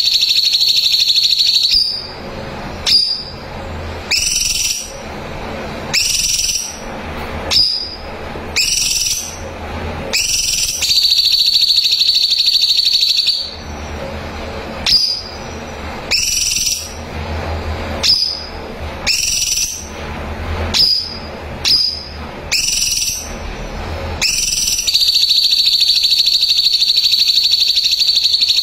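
Cucak cungkok singing: a long, high, rapid buzzing trill, then a run of short upward-sweeping whistles about one a second, then the trill again. The pattern repeats twice more.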